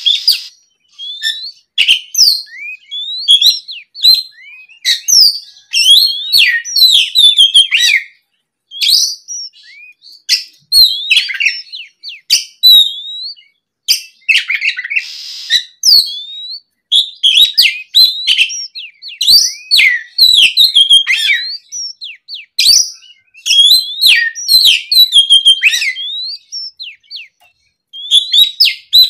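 Oriental magpie-robin (kacer) in full, fluent song: rapid phrases of clear whistles, gliding rising and falling notes and sharp chirps. The phrases come in loud bursts broken by short pauses.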